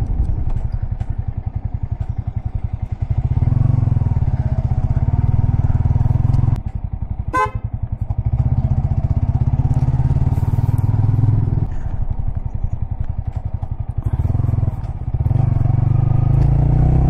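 Royal Enfield Continental GT 650's 648 cc parallel-twin engine under way, the rider opening the throttle and backing off several times so the engine note rises and falls. A short horn beep sounds about seven seconds in.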